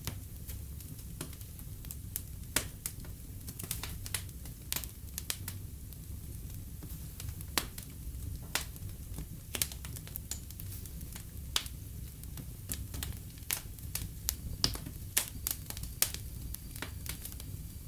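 Wood fire in a fireplace crackling, with irregular sharp pops scattered through over a steady low rumble.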